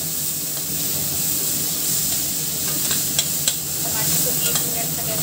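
Chopped tomatoes and fried onions sizzling in hot oil in a stainless-steel pot, stirred with a metal spatula that scrapes along the pot. The spatula knocks sharply against the pot twice about three seconds in.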